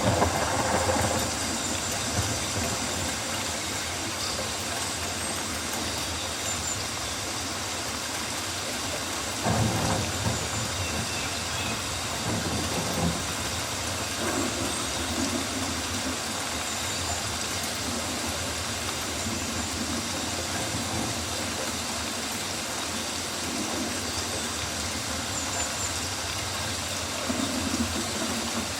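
Rainforest ambience: a steady hiss of rain with a low rumble under it, swelling briefly about ten seconds in and again near the end.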